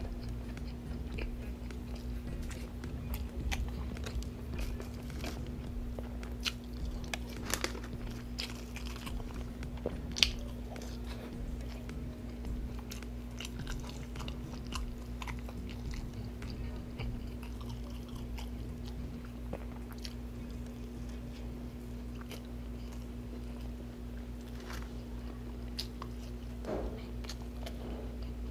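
Close-miked chewing and biting of a fried-chicken sandwich: wet mouth sounds with sharp crunchy clicks now and then, the loudest about ten seconds in. A steady low hum runs underneath.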